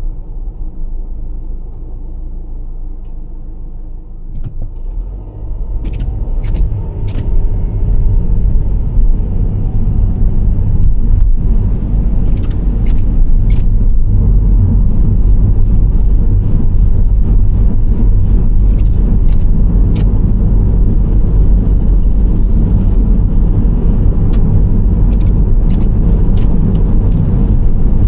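Nissan Serena C25 minivan driving, with engine and road rumble. The rumble is lower for the first few seconds, grows louder about five seconds in, then holds steady, with scattered sharp ticks over it.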